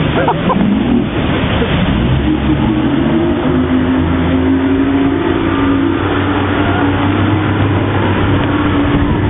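Tour motorboat's engine revving up, its pitch rising over the first couple of seconds and then holding at a steady high run, over a loud rushing noise of water and wind.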